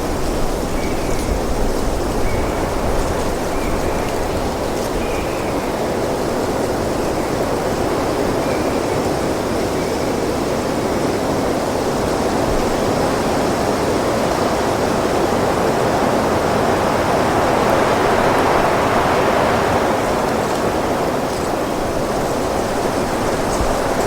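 Wind blowing steadily as a loud, even rush, swelling into a stronger gust about three-quarters of the way through before easing again.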